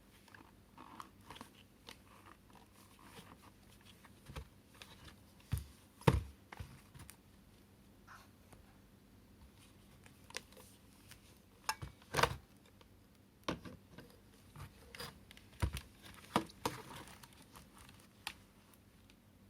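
Hard plastic parts of a cordless cyclone stick vacuum being handled: scattered clicks, taps and knocks at an irregular pace, the loudest about six and twelve seconds in.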